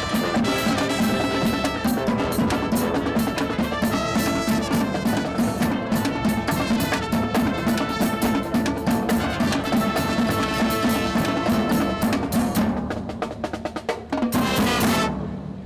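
Marching band of brass and drumline playing, with snare and bass drums prominent under the horns. Near the end the music thins to drum strokes, then one loud full-band chord cuts off sharply: the end of the show.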